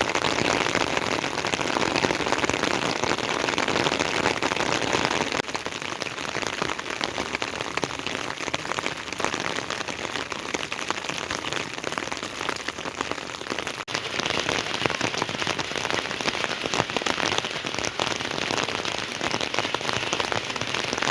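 Rain pouring steadily, a dense hiss of drops striking surfaces; it drops a little in level about five seconds in, with a brief gap near the fourteen-second mark.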